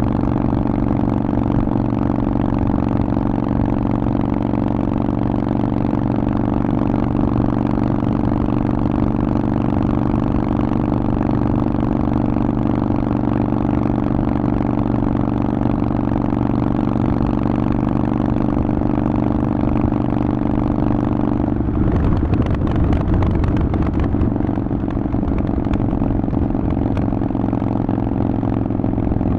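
Harley-Davidson Forty-Eight's air-cooled 1200 cc V-twin running through a Vance & Hines exhaust, a steady deep pulse. About three quarters of the way through the note breaks up briefly into a rougher, noisier stretch, then settles back to a steady run at a slightly different pitch.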